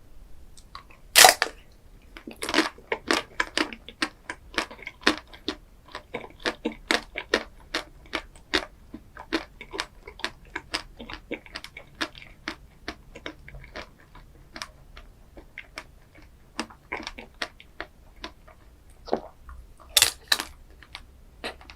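Close-miked chewing and crunching of a chocolate ice cream dessert: a fast run of sharp crackles and snaps, with a loud crack about a second in and another near the end.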